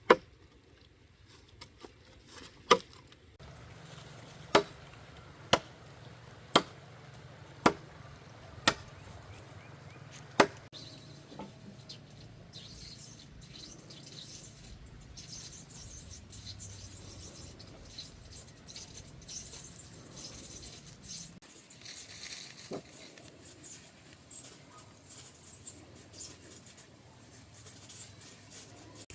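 Sharp chopping blows of a blade into the wood of a fallen tree, about one a second, eight strikes that stop about ten seconds in; after that only faint background noise.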